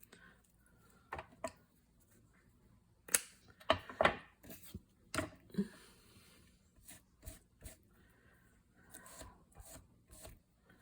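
Craft trim being distressed ("tattered") by hand: irregular short scrapes and snips, with the sharpest ones about three to five seconds in.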